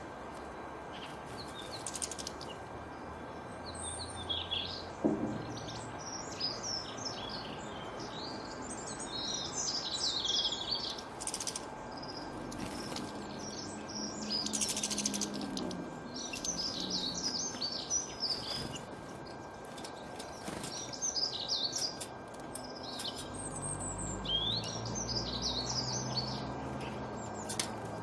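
Several small songbirds chirping and twittering in quick, overlapping short high calls over a steady background hiss.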